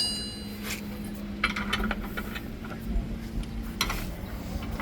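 Metal tools and parts clinking in short bursts of clicks, a few times, over a steady low hum.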